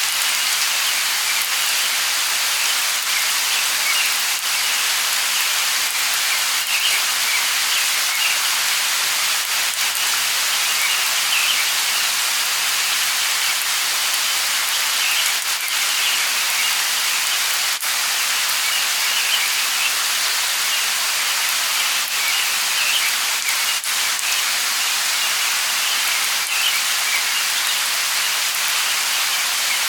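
Steady light rain falling, an even hiss with the patter of individual drops, and faint bird chirps scattered through it.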